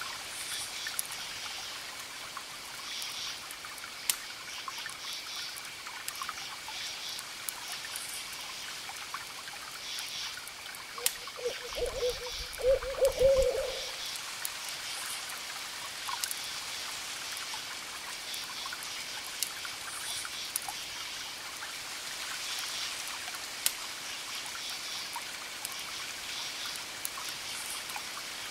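An owl hooting for about two seconds midway, the loudest sound, over the crackling pops of a wood fire and a steady hiss.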